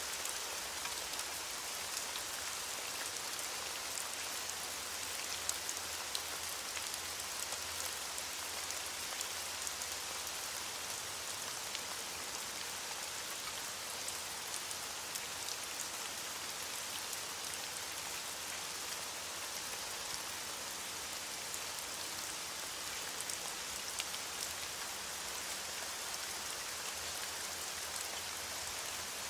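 Steady rain falling: an even hiss of rain with many small drop ticks scattered through it.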